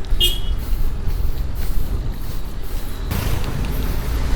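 Wind rumbling on the microphone while riding a bicycle along a road, with a short high squeak near the start. From about three seconds in, the hiss of a passing motor vehicle rises over it.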